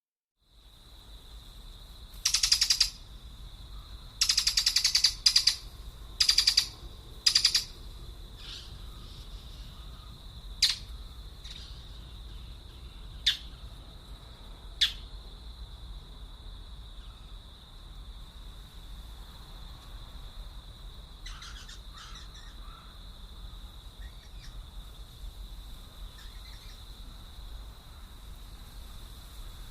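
Wild birds calling: four loud, harsh, raspy calls in the first eight seconds, then a few short sharp chirps, over a steady high-pitched buzz.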